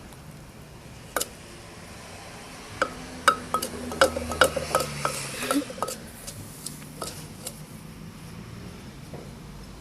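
Pestle striking a Thai mortar (krok): single knocks, then a quick run of ringing strikes in the middle, then a few more, as when pounding chili paste.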